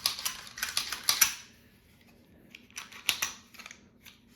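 Sharp metallic clicks and clacks of a loaded carry pistol being handled and cleared for cleaning, in two quick bursts, one at the start and another about three seconds in.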